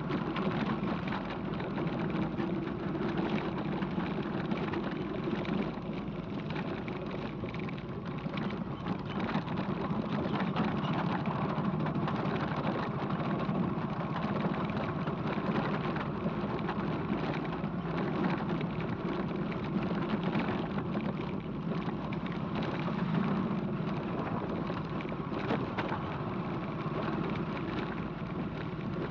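Motorcycle engine running steadily while riding, with a constant low drone under a wash of wind and road noise.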